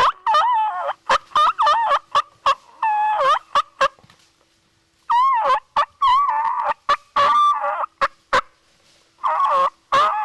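Wild turkeys calling loudly close by: several runs of rattling, warbling gobbles, with a short pause about four seconds in and another near the end.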